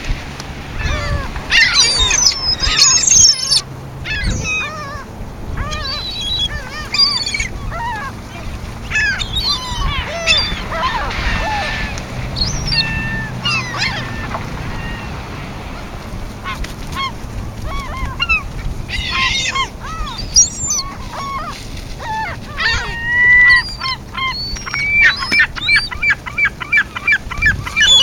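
A flock of birds calling over one another, with many short calls overlapping, and a fast run of repeated calls near the end.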